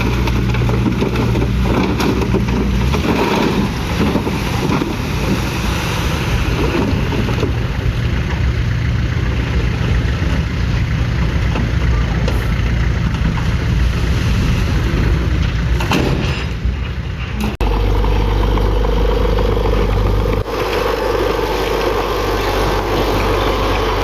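Heavy diesel earthmoving machinery running under load. The sound changes abruptly twice, about two-thirds of the way through and again a few seconds later.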